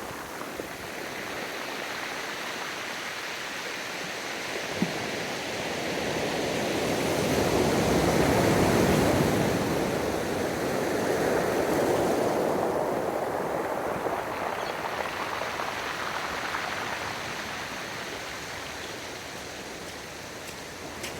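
Ocean surf: waves washing up the beach, the rush swelling to its loudest about halfway through and then slowly subsiding.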